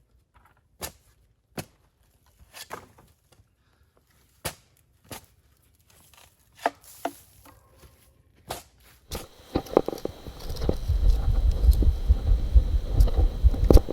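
Spade digging into the forest floor: separate chops and scrapes a second or so apart. About nine seconds in, a loud low rumble comes up and the strikes come thicker and faster.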